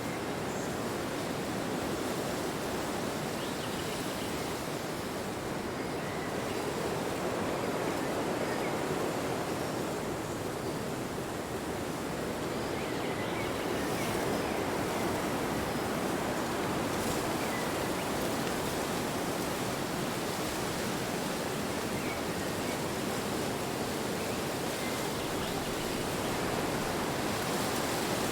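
Wind blowing steadily, a continuous rushing that swells and eases slightly, with a few faint high chirps over it.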